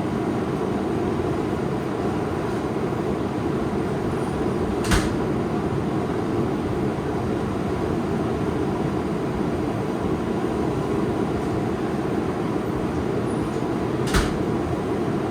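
Steady low rushing noise of a knife-forging forge running, with two sharp knocks, about five seconds in and again near the end.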